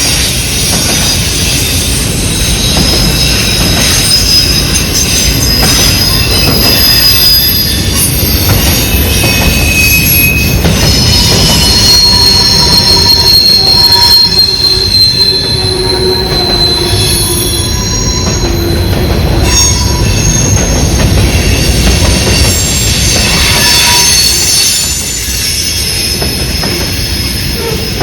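Freight train rolling past with a loud, steady rumble, its steel wheels squealing in several high tones that come and go, strongest about halfway through.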